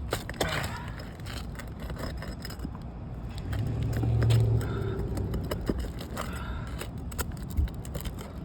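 Metal roofing tool clinking and scraping against shingles and roofing nails as the nails are worked loose, in scattered sharp clicks. A low engine hum swells briefly around the middle.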